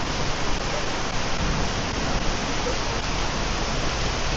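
Heavy storm rain pouring steadily, a dense even hiss.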